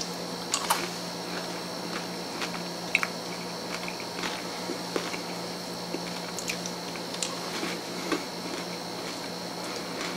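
Chewing candy-coated M&Ms: small scattered crunches and clicks of the candy being bitten, over a steady low background hum.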